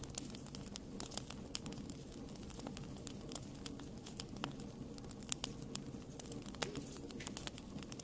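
Wood fire burning in a fireplace: a low steady rumble of flames with many sharp, irregular crackles and pops.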